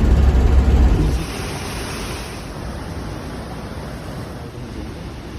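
Wind buffeting the microphone, with a heavy low rumble for the first second or so, then a steadier rushing hiss.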